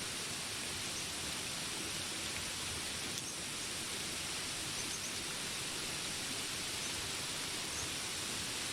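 Steady rain hiss, with faint short high chirps here and there, typical of jungle birds or insects.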